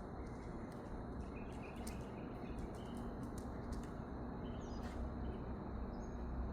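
Faint outdoor background with a low steady rumble and a few faint, short bird chirps.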